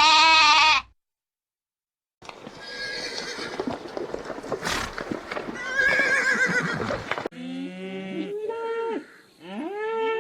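A short bleat in the first second, then a horse neighing and whinnying over rough noise for about five seconds. Near the end come a chicken's stepped clucks and calls.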